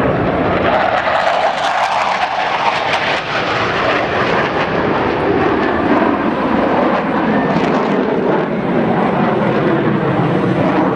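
Loud, steady jet noise from Blue Angels F/A-18 Hornets in flight.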